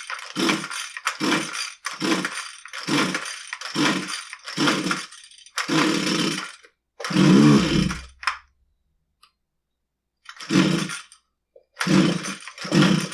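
Husqvarna 129L string trimmer's small two-stroke engine being pull-started on full choke: the recoil starter rope is yanked about eight times in quick succession, then after a pause three more times, with the engine turning over on each pull but never firing. It will not catch because no fuel is reaching the cylinder, which stays dry: a loose intake manifold (insulator block) lets air leak past the carburetor.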